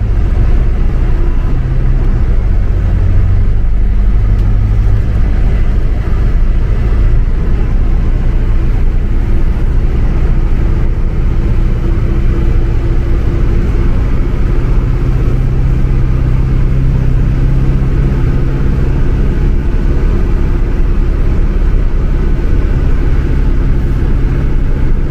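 Motor vehicle running: a steady low rumble with a deeper hum that shifts in pitch a few times.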